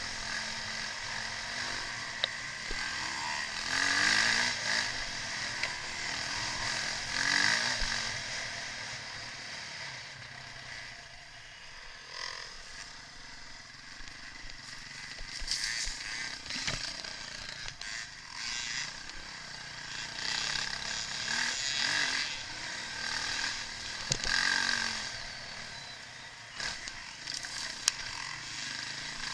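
Motocross bikes racing, their engines revving up and fading several times as they ride past, with a few sharp clicks.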